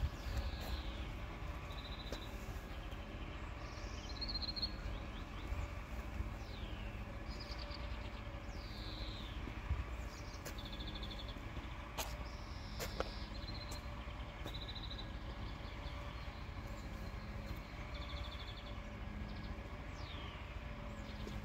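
Several birds singing and calling, with repeated falling whistles and short high trills, over a low steady rumble. Two sharp clicks come about halfway through.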